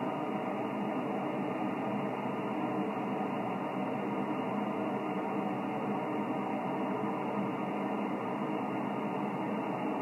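Steady hiss of band noise from a Yaesu FT-1000MP HF transceiver on the 20-metre band between voice transmissions, with no high end because of the receiver's narrow voice filter.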